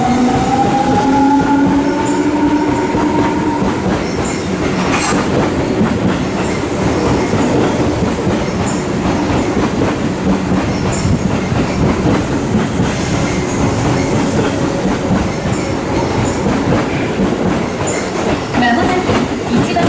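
Tobu 9000 series electric train pulling away from a station. Its traction motors whine in rising tones over the first four seconds as it accelerates, then it settles into dense running noise with wheels clacking over rail joints.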